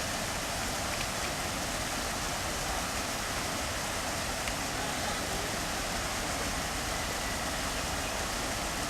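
A steady rushing noise, even throughout, with a few faint short high sounds over it.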